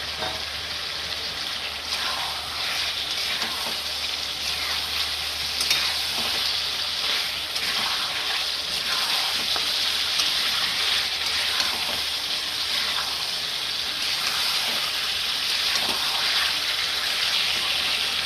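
Chicken pieces, potatoes and spice masala sizzling steadily in hot oil in a pan, with occasional scrapes of stirring.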